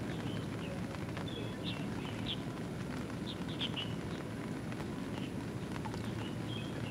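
Steady rain patter, with small birds giving short high chirps scattered through it, most of them between about one and a half and four seconds in.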